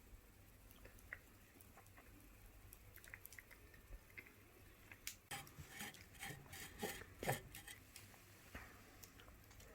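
Wood fire crackling faintly, with scattered small pops and a quick run of louder crackles about halfway through.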